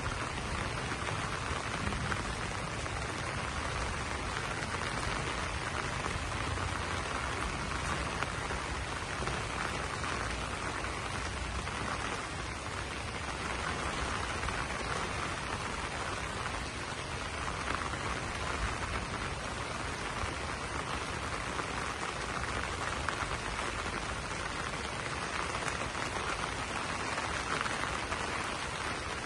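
Steady rain falling on banana leaves: a dense, even hiss of many small drop impacts.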